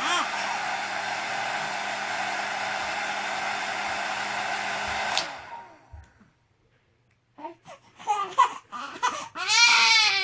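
Hair dryer running with a steady blowing noise and a low hum, switched off about five seconds in. After a second or so of silence, an infant begins to fuss and then breaks into crying again near the end.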